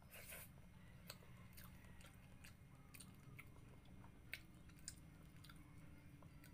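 Faint close-up chewing of a mouthful of rice and fish eaten by hand. There is a louder burst as the food goes in at the start, then soft wet clicks and smacks about every half second.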